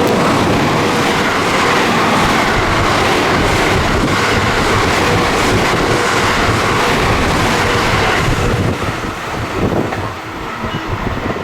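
JR West Biwako Line train passing through the station at speed without stopping, its wheels clattering over the rail joints; the noise eases off about eight and a half seconds in as the train clears the platform.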